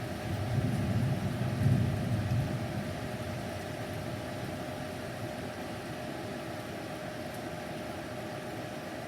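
A low rumble of distant thunder swells and fades away within the first few seconds, over a steady hiss of the storm.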